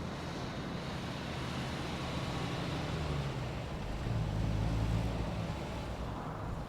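Car pulling in at low speed: engine running with tyre noise on the road surface, swelling louder about four seconds in and easing off near the end.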